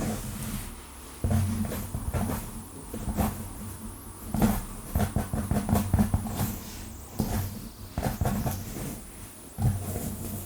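Long fingernails scratching fast through hair on a scalp, in short bursts of rapid strokes with brief pauses between, with dull rubbing thumps mixed in.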